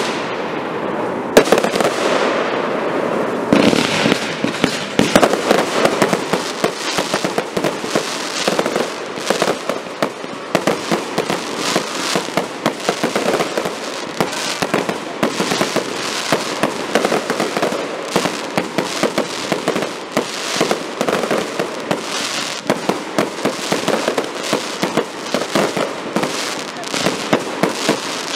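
Aerial fireworks display: a continuous barrage of shell bursts and bangs going off in quick succession, several a second, without a pause.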